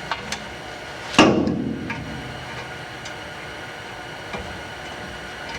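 Metal clicks and clanks from handling a steel exhaust header and its bolts while fitting it to the cylinder head, with one loud, ringing metal clank about a second in.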